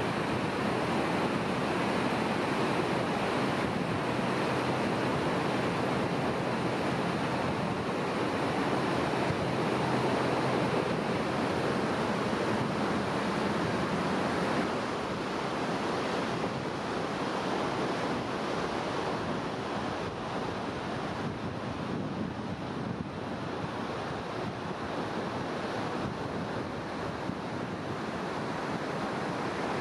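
A steady, even rushing noise with no distinct events, easing slightly in level about halfway through.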